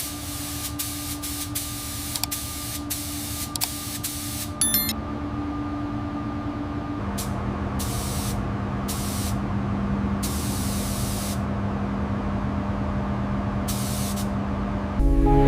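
Paint spray gun hissing in repeated short bursts, with a few longer passes after the first five seconds, over a steady low hum.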